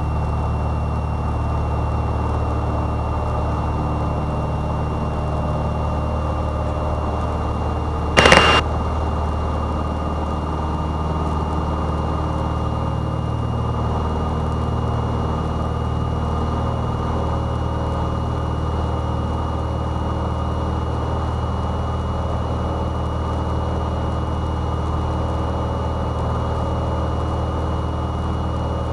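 Cessna 172's piston engine and propeller at full takeoff power, a steady drone through takeoff and climb-out. A short, loud sound cuts in once, about eight seconds in.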